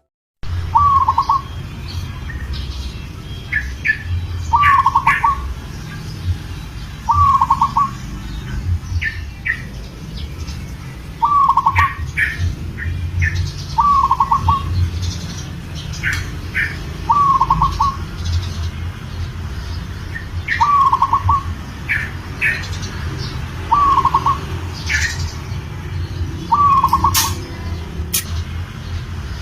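Zebra dove cooing, a short trilled phrase repeated about every two seconds: a male in breeding condition calling for a female. Higher short chirps of other small birds sound between the coos over a steady low rumble.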